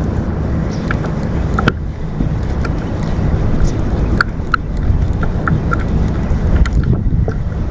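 Wind rumbling steadily on the microphone out on the water from a kayak, with many small scattered clicks and splashes over it.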